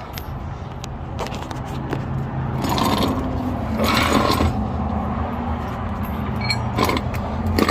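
Metal scraping and clanking as a hydraulic bottle jack is slid into place under a vehicle, with two longer scrapes about three and four seconds in and scattered knocks, over a steady low hum.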